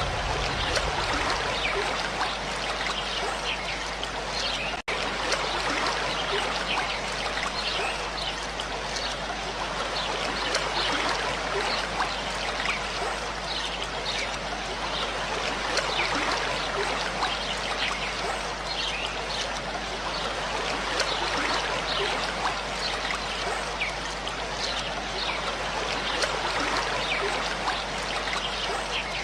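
Water of a small stream flowing and trickling, steady throughout, with many small bubbling splashes. The sound briefly cuts out about five seconds in.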